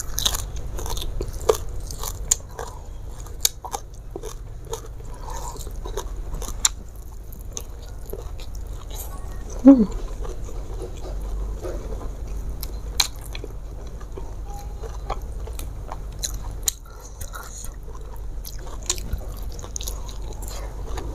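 Close-miked chewing of a mouthful of raw papaya and cashew leaves with rice and sambal, with many small crunches and wet mouth clicks. A short hummed vocal sound, falling in pitch, about ten seconds in.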